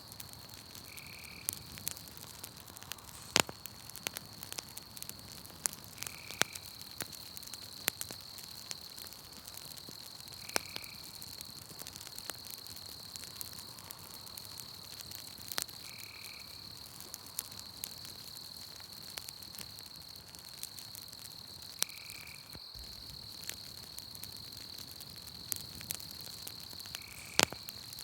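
Campfire crackling, with sharp pops scattered irregularly, over a steady high-pitched trill of night insects. A short call repeats about every five seconds.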